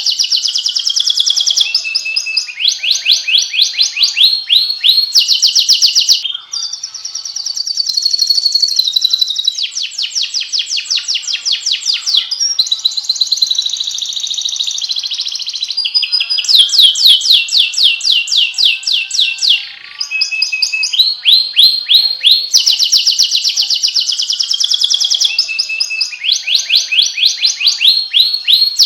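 Domestic canary singing a loud, continuous song of fast trills: each phrase a rapid run of repeated notes, switching to a new phrase every second or two.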